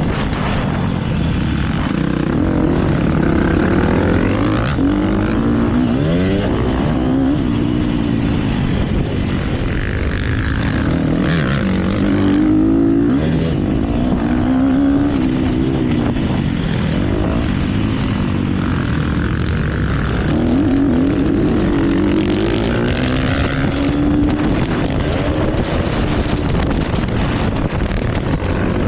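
KTM motocross bike engine revving hard and dropping off over and over, its pitch rising and falling every second or two as the rider works the throttle and gears around the track.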